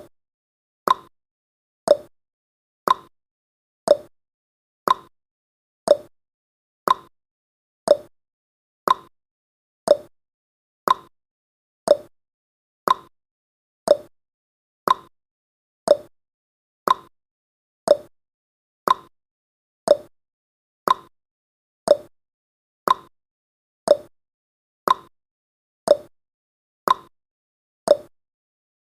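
Countdown timer's clock tick-tock sound effect: one short tick each second, alternating between a higher and a lower click.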